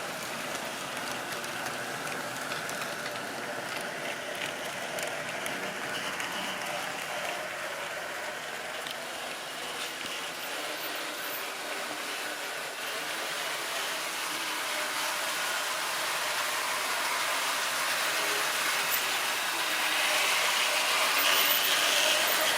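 Model railway train running on the track, its motor and gears whirring and the wheels clicking over the rail joints. It grows steadily louder, loudest near the end, as the train comes closer.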